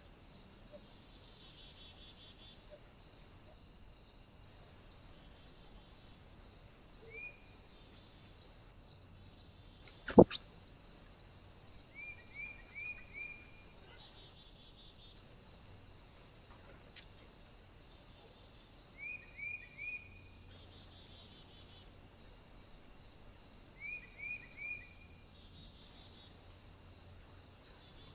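A small bird calling at a feeder: short rising chirps in quick runs of three or four, repeated four times. A single sharp knock about ten seconds in is the loudest sound, over a steady high hiss.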